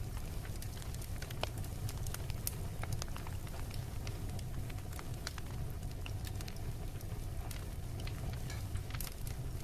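Wood bonfire crackling, with many irregular sharp pops and snaps over a steady low rumble.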